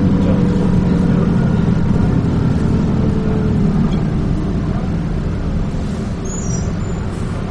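Dennis Trident 2 double-decker bus engine running while under way, with road noise, heard from inside the bus. Its low drone eases off a little about halfway through.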